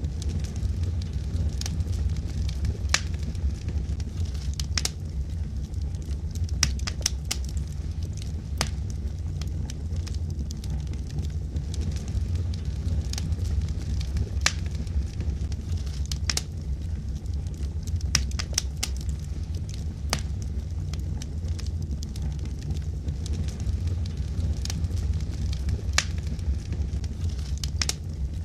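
Wood logs burning in a fireplace: a steady low rumble of flame with frequent sharp, irregular crackles and pops.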